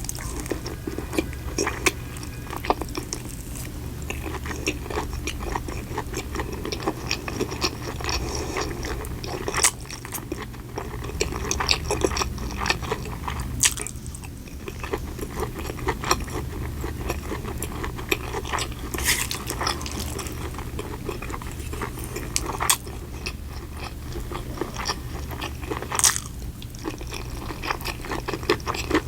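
Close-miked eating: a person biting and chewing food, with frequent sharp crunches and wet mouth clicks throughout.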